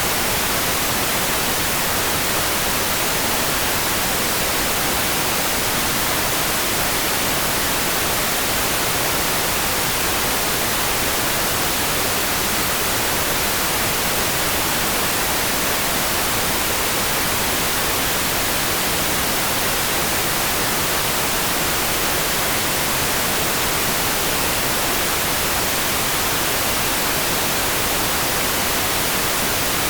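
Steady rain sound: an even, unchanging hiss, brightest in the high range, with no separate drops, thunder or other events standing out.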